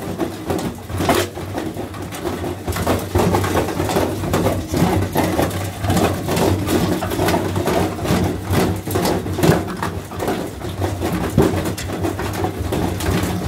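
Washing machine running hard, a steady motor hum with constant irregular knocking and rattling.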